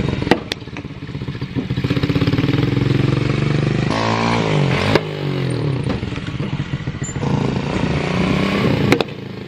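Chinese 125cc pit bike engine revving as the bike is ridden, its pitch repeatedly climbing and dropping, with a few sharp clicks along the way.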